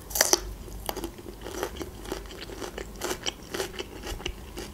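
Crisp crunching of a raw green bell pepper slice, bitten hard just after the start and then chewed with a string of smaller crunches.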